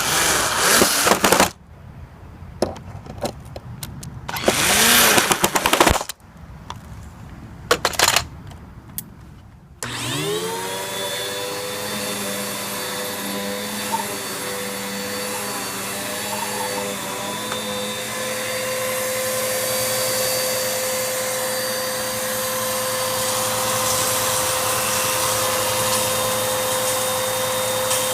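Loud knocks and rustling for the first several seconds. Then a Bissell vacuum cleaner is switched on about a third of the way in: its motor spins up with a rising whine and runs steadily, turning a brush roll driven by a makeshift belt cut from a lawnmower inner tube.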